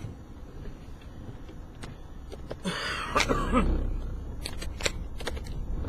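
Inside a vehicle: a steady low rumble, with a brief voice-like sound about three seconds in, then a run of sharp, irregular clicks and taps.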